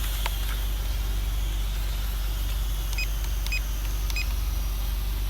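A motor vehicle engine runs with a steady low rumble, and three short high-pitched beeps sound about half a second apart near the middle.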